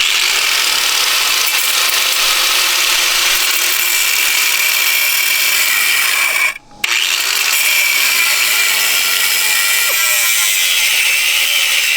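Angle grinder cutting into a corroded, seized car part, running steadily with a high whine. It stops briefly just past halfway, then starts again.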